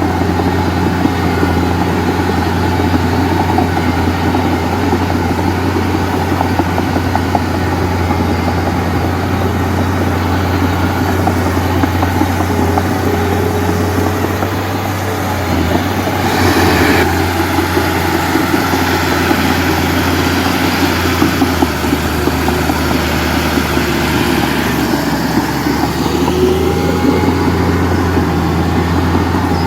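Heavy diesel machinery running steadily with a low engine hum, with a brief louder surge about seventeen seconds in.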